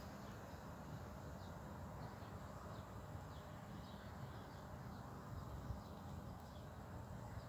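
Faint outdoor ambience: small birds giving short, scattered chirps over a low steady rumble.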